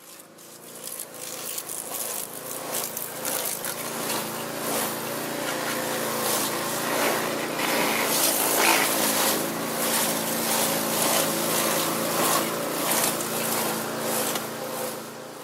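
Motocross motorcycle engines running steadily, with a busy clatter of other track noise over them.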